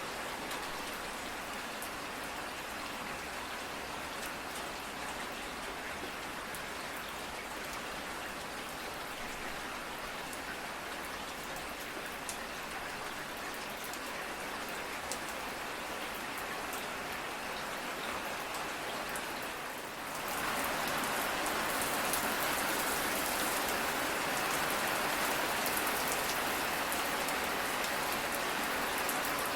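Steady rain with individual drops ticking through the hiss. About two-thirds of the way through it suddenly becomes louder and fuller, and stays that way.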